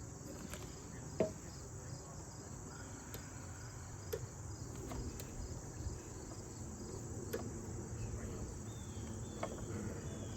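Crickets chirping steadily in the background, with a low hum and a few sharp clicks scattered through.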